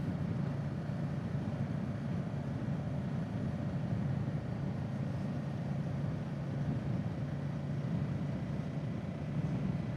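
Kawasaki Z650's parallel-twin engine running at a steady low speed, an even low drone with road and wind noise.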